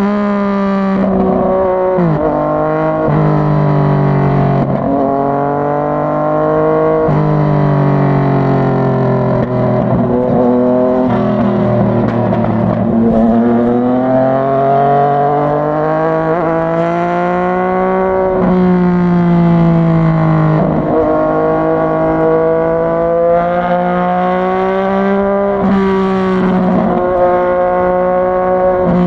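Yamaha MT-09's 847 cc crossplane inline-three engine pulling hard through the gears. Its pitch climbs and then drops sharply at each upshift, several times over, with a longer easing-off and build back up in the middle.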